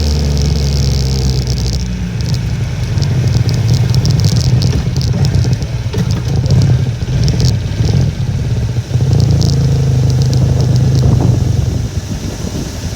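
Honda Little Cub's small four-stroke single-cylinder engine running on the move, its note shifting up and down a few times, with strong wind buffeting the microphone.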